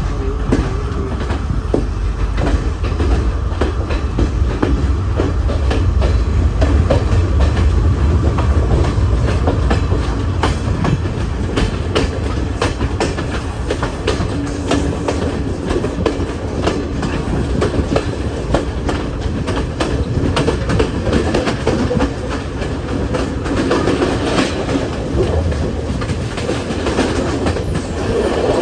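A passenger train running on the rails: a steady low rumble with the wheels clicking over rail joints.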